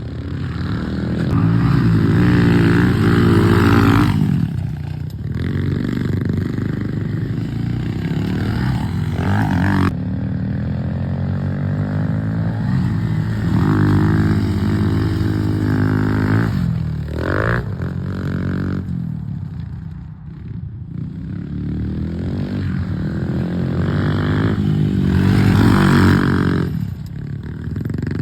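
Pit bike engines revving hard, the pitch climbing and falling again and again as the riders accelerate and back off, with several short drops in level.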